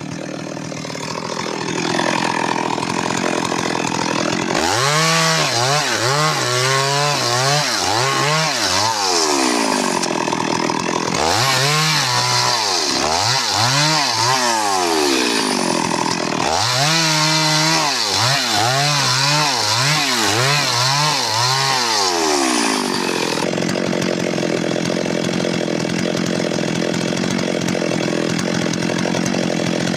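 Stihl MS 382 two-stroke chainsaw running hard, its engine pitch dipping and recovering about once a second through three long spells as the chain cuts into wood, with steadier running before and after.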